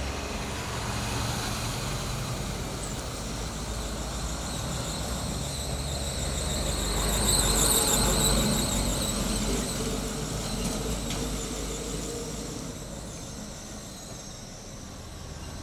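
Heavy vehicle on a road, a steady low rumble with a high wavering squeal that swells to its loudest about eight seconds in, then fades away.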